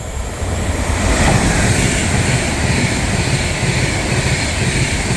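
Avanti West Coast Class 390 Pendolino electric train passing through the station at speed: a loud, steady rush of wheels on rail and air, building over the first second.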